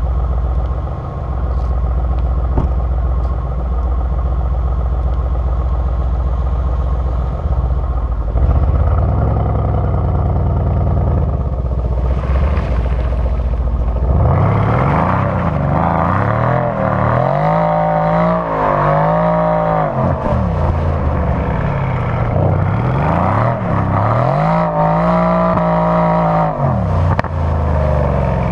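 Mercedes-AMG C63's 4.0-litre V8 running at low revs with a deep, even rumble, then from about halfway revving up and down repeatedly. Twice the revs are held high for a few seconds, as in wheelspin while drifting.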